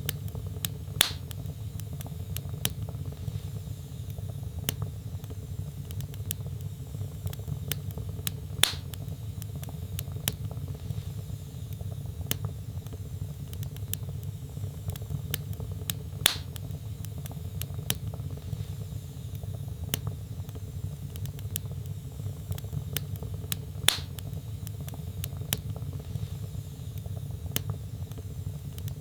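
Wood logs burning in a fireplace: a steady low rumble of flames with small crackles throughout, and four sharper pops about seven and a half seconds apart.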